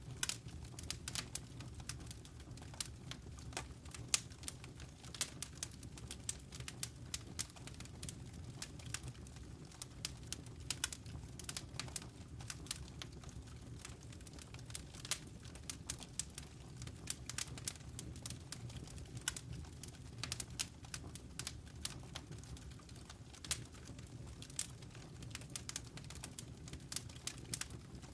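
Wood fire burning in a fireplace, crackling and popping with many small irregular snaps over a low steady rumble of the flames.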